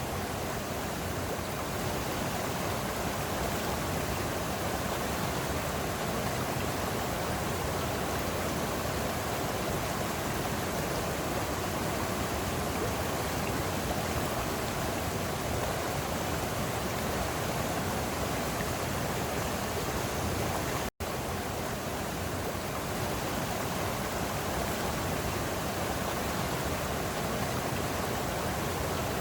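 Water of a small forest waterfall pouring and rushing steadily. The sound cuts out for a split second about two-thirds of the way through.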